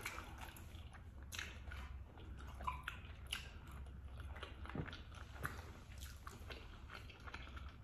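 Faint chewing and biting of food close to the microphone, a scatter of small mouth clicks and smacks.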